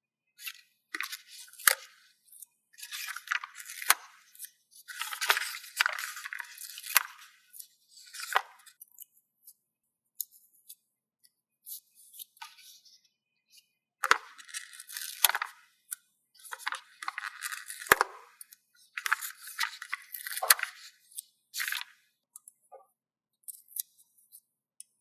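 Paper stickers being peeled from their backing and pressed down: crackly rustling in bursts with sharp clicks, with a quieter stretch in the middle.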